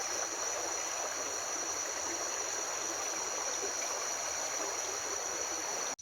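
River water running steadily over rocks, an even rushing flow.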